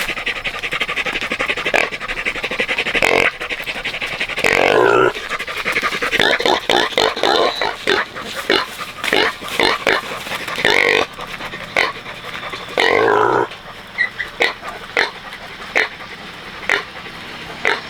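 Pigs grunting and squealing, with loud calls about five seconds in and again near thirteen seconds, and many short squeaks and snuffles in between.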